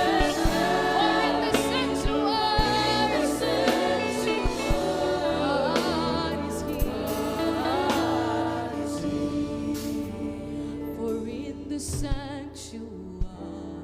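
Live gospel worship song: voices singing over a band accompaniment, the singing thinning out and growing quieter in the second half.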